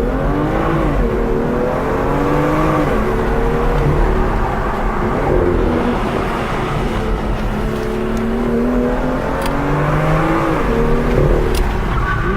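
BMW M2's 3.0-litre twin-turbo inline-six accelerating hard through the gears, heard from inside the cabin. The engine note climbs and drops back at each upshift, several times over.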